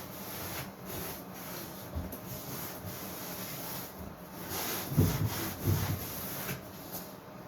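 Hand rubbing and scraping on a wooden workpiece, with a couple of dull thumps about five seconds in.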